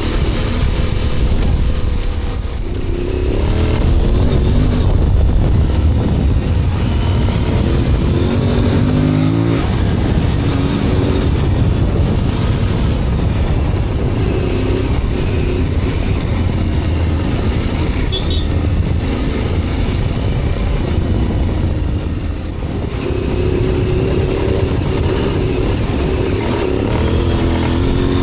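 Dual-sport motorcycle engine running under way, its pitch climbing and then dropping several times as the rider accelerates and shifts gears, over a steady low rumble.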